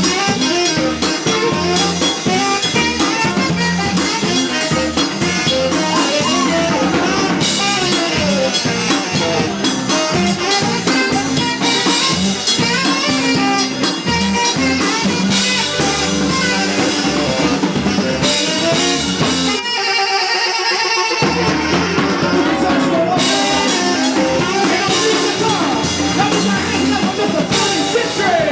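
Live blues band playing with a drum kit. The bass and drums drop out for about a second and a half roughly two-thirds of the way through, then come back in.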